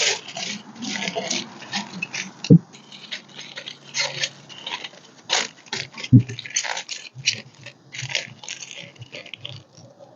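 Aluminium foil crinkling and rustling in irregular crackles as it is wrapped around a breadfruit, with two dull knocks, one a few seconds in and one about halfway.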